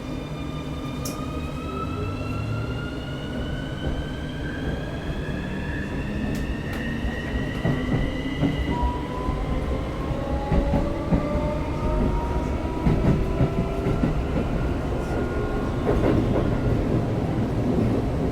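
Siemens VVVF inverter and traction motors of a Keikyu 1000-series train whining as the train accelerates, several tones rising in pitch together for about nine seconds, then a second rising set, over the rumble and clatter of wheels on rail.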